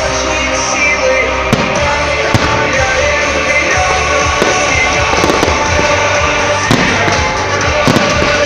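Fireworks going off, with scattered sharp bangs every second or so, over loud music.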